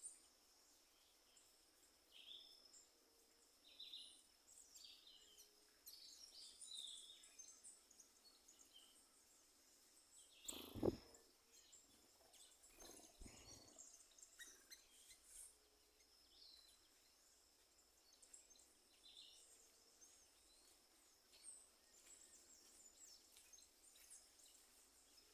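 Faint birdsong: scattered short, high chirps and calls from several birds. A loud thump about halfway through is followed by two softer knocks a couple of seconds later.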